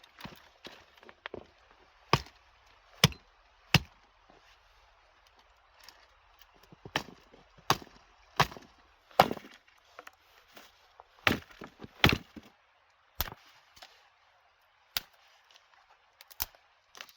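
Chopping: a blade striking wood in about fifteen sharp, irregular blows, some much louder than others.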